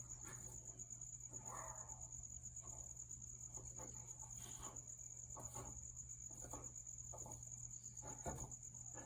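Crickets trilling in one steady, unbroken high-pitched note, with faint intermittent scuffling and short soft sounds from dogs at play.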